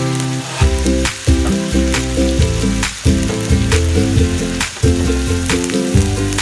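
Squid frying in a stainless steel wok, a steady sizzle, with background music playing over it.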